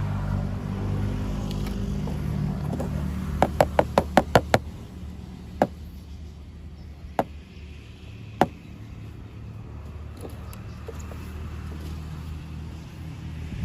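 A steady low motor hum begins abruptly. A few seconds in comes a quick run of about seven sharp clicks, followed by three single clicks spaced a second or more apart.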